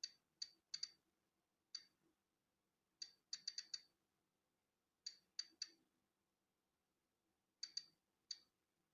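Polon EKO-C digital Geiger counter clicking at random intervals, about sixteen sharp clicks, some in quick bunches and others alone with gaps of a second or more. Each click is one detected count of natural background radiation.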